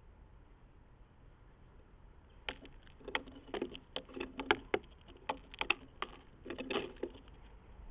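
Birds on a bird table scuffling and tapping, a run of irregular sharp taps and knocks lasting about five seconds, starting a couple of seconds in.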